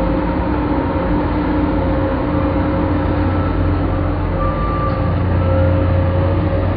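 Excavator's diesel engine running steadily at work: a deep, even drone with a few steady tones above it.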